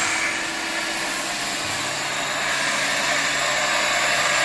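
A steady rushing hiss from workshop machinery, starting abruptly and slowly growing louder, like a blower or compressed air.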